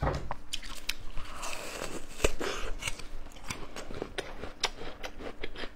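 Close-miked crunching and chewing of raw yacon: crisp, irregular crunches and clicks as the juicy tuber is bitten and chewed with a full mouth.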